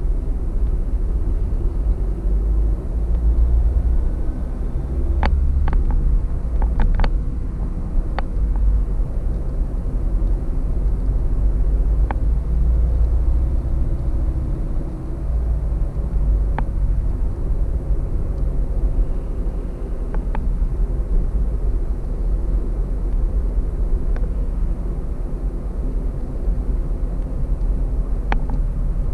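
Road noise inside a car cruising at highway speed: a steady low rumble of tyres and engine. A few brief faint clicks come through, a cluster of them about a fifth of the way in and single ones scattered after.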